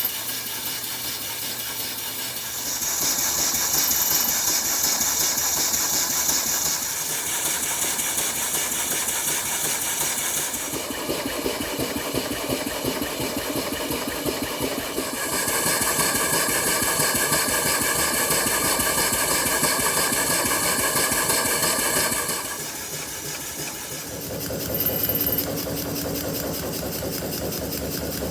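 Small model engine running with a fast, even beat. Its tone changes abruptly several times, about 3, 11, 15, 22 and 24 seconds in.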